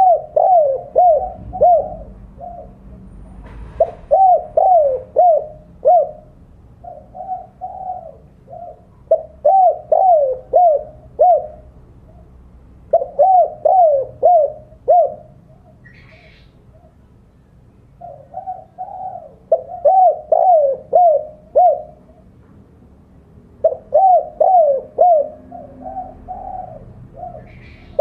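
Spotted dove (tekukur) cooing its 'kuk 2' challenge call in repeated phrases a few seconds apart, each a quick run of falling coo notes. It is the call given to draw a rival dove.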